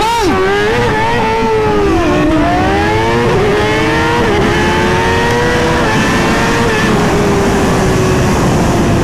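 Suzuki GSX-R 1000 inline-four sport bike launching off a drag-strip start line and accelerating hard through several upshifts, its pitch climbing and then dropping at each shift before easing off near the end. The rear tire spun at the launch.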